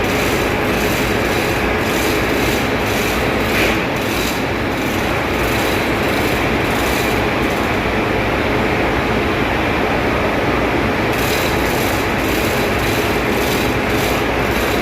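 Loud, steady engine-room machinery noise with a faint steady hum. In the first half and again near the end, a rapid hissing pulse repeats about twice a second.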